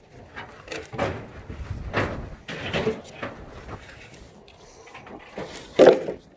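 A series of knocks and clatters about a second apart, as of boards or pieces of scrap being handled, with one louder bang near the end.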